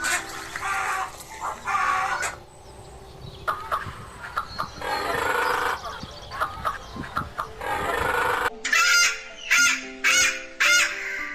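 Chickens: a rooster crowing several times, then a quick run of short, sharp clucks near the end, over background music.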